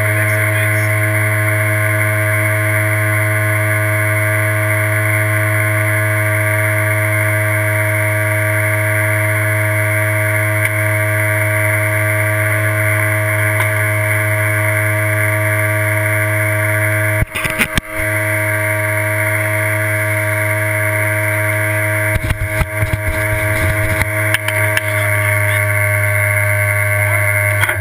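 Off-road race car engine running at a steady speed, with a few knocks partway through and a cluster of knocks later; the engine sound drops away abruptly at the very end.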